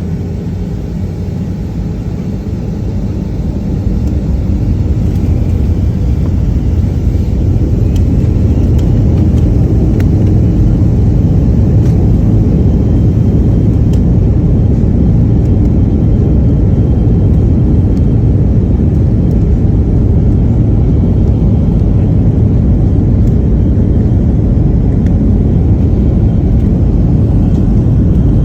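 Airliner taking off, heard from inside the cabin: a loud low rumble of jet engines and airflow that builds over the first few seconds and then holds steady.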